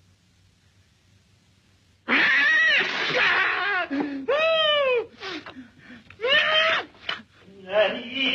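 Cat yowling and meowing, starting about two seconds in: a long wavering yowl, then several drawn-out meows that rise and fall in pitch, with short cries between.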